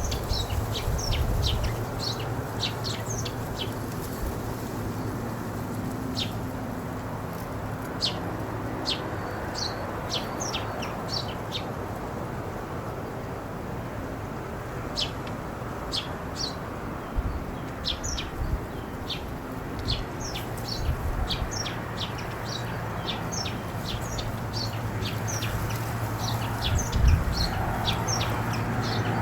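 Small birds chirping in many short, high, repeated calls over a steady wash of ocean surf.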